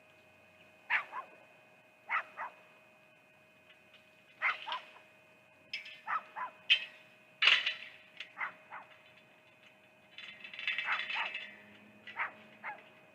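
An animal giving sharp, dog-like barks and yips, mostly in quick pairs, repeated every second or two, with a denser run of calls about ten to eleven seconds in. A faint steady electrical hum runs underneath.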